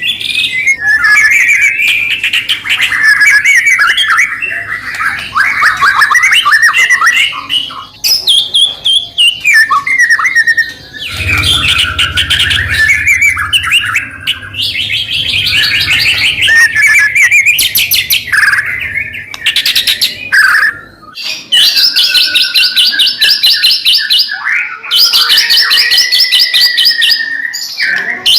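White-rumped shama (murai batu) in full, vigorous song: a continuous run of varied whistles, trills and rapid chattering phrases, ending in fast repeated high notes over a held whistle.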